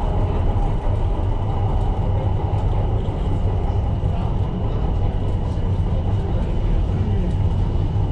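Tyne & Wear Metrocar running along the line, a steady rumble of wheels and motors with a strong low hum. A thin steady high tone runs through it, with faint small clicks from the track.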